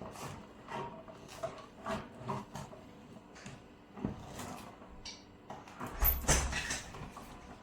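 Scattered clicks, knocks and light clatter of household objects being handled, with a louder thump and rattle about six seconds in.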